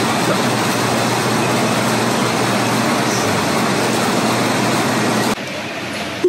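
Steady, loud road noise of a moving vehicle. It drops abruptly to a quieter running noise about five seconds in.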